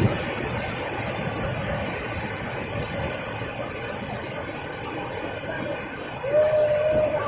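Steady rushing roar of a waterfall. About six seconds in, a long held tone with overtones comes in over it.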